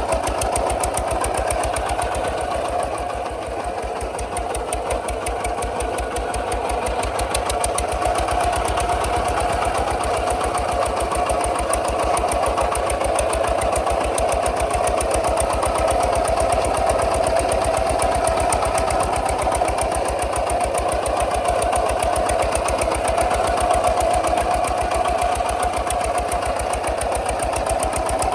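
Kubota RT 140 DI single-cylinder diesel engine running steadily, with an even, regular beat of firing pulses.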